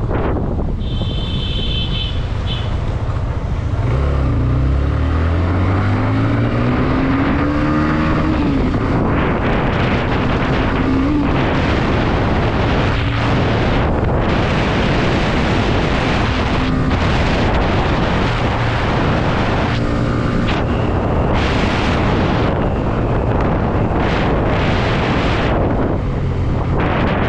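Hero Xtreme 125R motorcycle on the move, with heavy wind noise on the microphone. The engine's pitch rises as it accelerates about four to eight seconds in, with another short rise near eleven seconds, and a brief high-pitched beep sounds about a second in.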